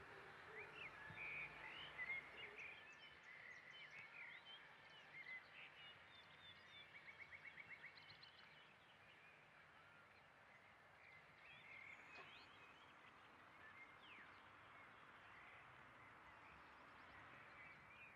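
Faint outdoor background with small birds chirping and calling, including a quick run of repeated notes about seven seconds in; the calls grow sparser in the second half.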